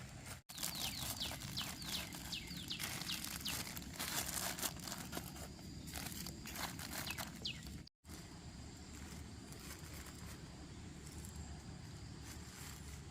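Short, quick falling bird chirps, repeated many times, over rustling and footstep-like noise. Both stop suddenly about eight seconds in, leaving steady outdoor background noise.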